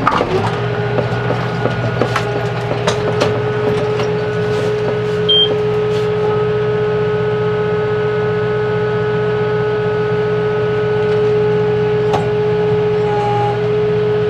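Kubota M6-141 tractor running steadily at PTO speed, about 1800 rpm, driving a baler: a constant engine drone with a steady whine over it, and scattered clicks and knocks over the first several seconds.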